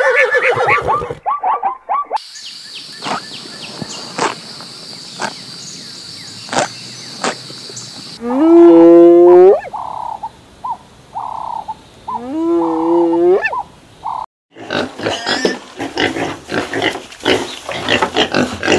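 Plains zebras giving short repeated barking calls, then a steady high-pitched hum with scattered clicks. A spotted hyena gives two rising whoop calls a few seconds apart. Near the end, piglets grunt and squeal as they feed.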